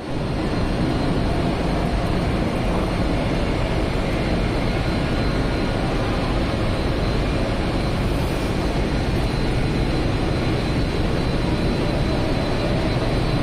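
A train running at speed: a steady rumble and rush of noise with a faint high whine, starting abruptly and holding even throughout.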